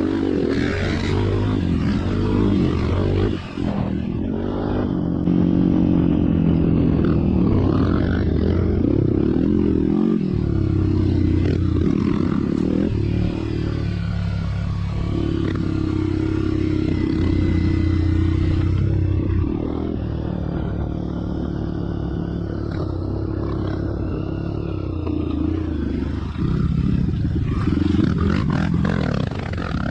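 Off-road motorcycle engine running on a trail, its engine speed rising and falling.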